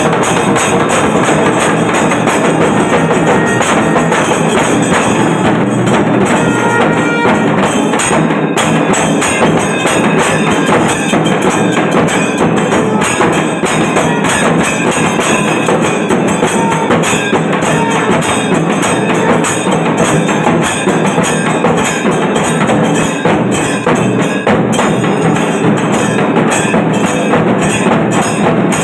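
A Tamil temple percussion ensemble (kailaya melam) playing loud, fast, unbroken drumming with rapidly struck cymbals.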